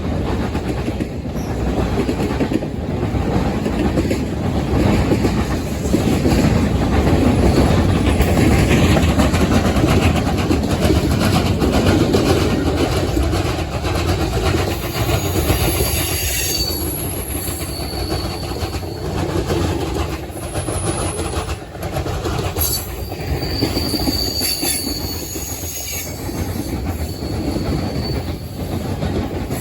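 Norfolk Southern freight train rolling past: a steady rumble of wheels on rail with clacking over the rail joints, and brief high-pitched wheel squeals several times in the second half.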